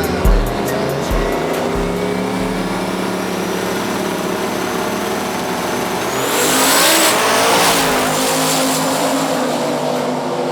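Drag race at full throttle: a twin-turbo S550 Mustang's engine running hard down the strip with a rising whine, swelling loudest about six to eight seconds in as the cars pass. A music beat is faint in the first seconds.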